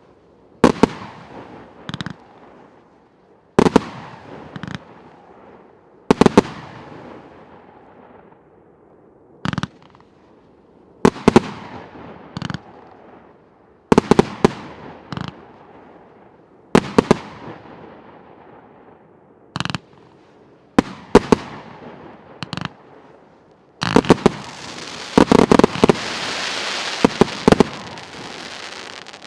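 1.2-inch consumer firework battery (cake) firing straight up shot after shot: each shot is a launch bang followed by a burst bang about a second later with a trail of crackle, every two to three seconds. In the last few seconds it ends in a rapid finale volley with continuous crackling.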